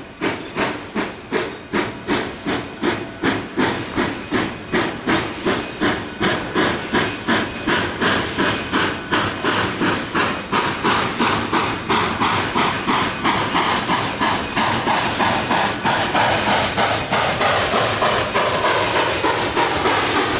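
Narrow-gauge steam locomotive working hard, its exhaust chuffing in sharp, even beats with steam hiss. The beats quicken from a little over two a second to about three a second as it gains speed, and run together near the end.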